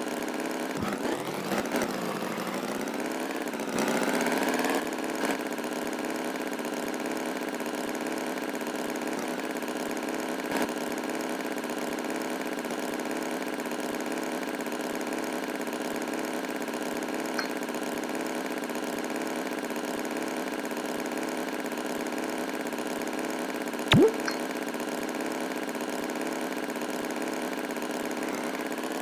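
Tractor engine idling steadily, its pitch swinging up and down briefly a few seconds in. There is one sharp click about 24 seconds in.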